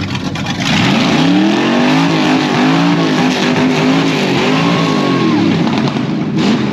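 A car engine revving up and down several times in short blips, the exhaust note rising and falling in pitch.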